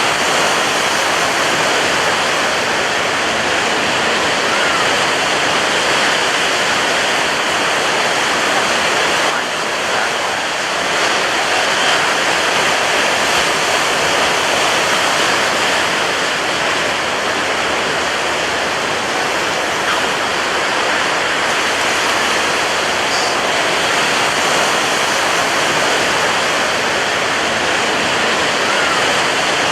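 Ocean waves breaking on a beach: a dense, steady wash of surf that barely rises and falls, with a slight dip in level about ten seconds in.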